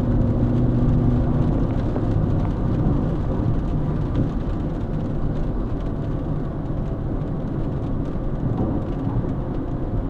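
Car interior road noise while driving: a steady low rumble of engine and tyres on a rain-wet road, with a low engine hum that fades after about two seconds.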